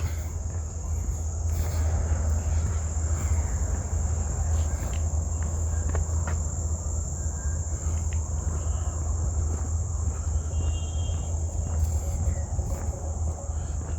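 A steady, high-pitched insect chorus of crickets trilling without a break. Underneath it runs a steady low rumble.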